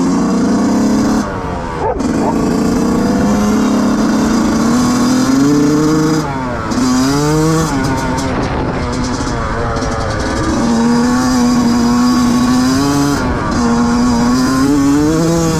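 2005 Yamaha YZ125 two-stroke single-cylinder engine being ridden hard, its pitch climbing under throttle, dropping and climbing again over and over. There are short throttle-off dips about a second in and around six seconds in.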